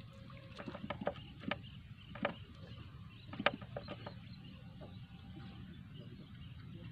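Quiet open-air background with a steady low rumble, broken by a few short, sharp bird chirps, the clearest about a second and a half and three and a half seconds in.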